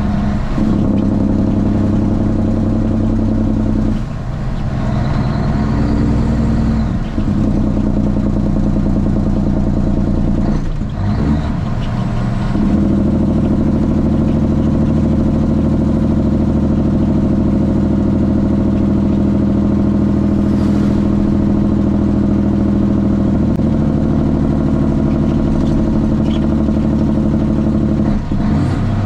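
Straight-piped Cummins ISX inline-six diesel in a Kenworth T800 running steadily, its note changing after brief dips several times, about 4, 7, 11 and 28 seconds in.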